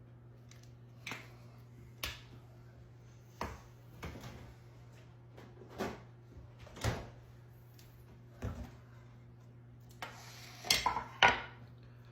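A spoon knocking and clinking against a dish while toppings are spooned onto baked potatoes: short sharp taps about once a second, with the loudest few close together near the end, over a steady low hum.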